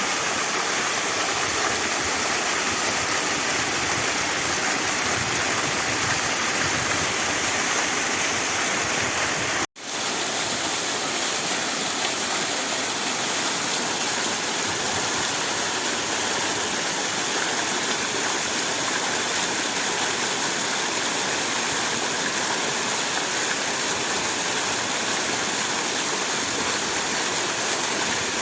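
Waterfall: a steady, even rush of falling water. About ten seconds in, the sound cuts out for an instant and quickly comes back.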